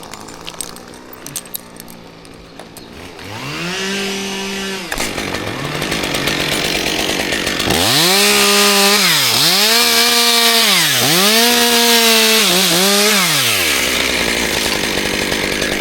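Chainsaw revved once briefly about three seconds in. From about eight seconds it runs at full throttle in four surges, its pitch rising and dropping between them as it cuts through wood.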